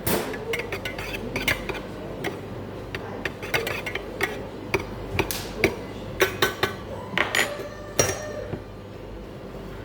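Teaspoon clinking against a china cup and saucer, many irregular sharp clinks as sugar is stirred into a cup of tea, stopping shortly before the end.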